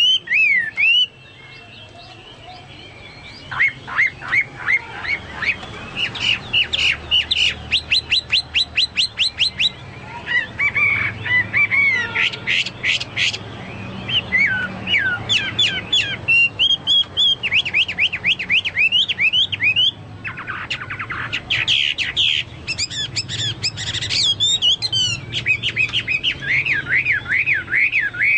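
Chinese hwamei singing in full voice: a long, varied song of loud whistled notes given in fast runs of repeated, swooping phrases, in a style like a cucak Papua or golden-fronted leafbird (cucak mas). The song pauses briefly about a second in and then runs on without stopping.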